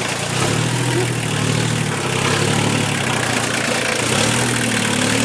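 Tractor engine running while it tows a trailer in reverse. The revs pick up about half a second in and change pitch a couple more times as it manoeuvres.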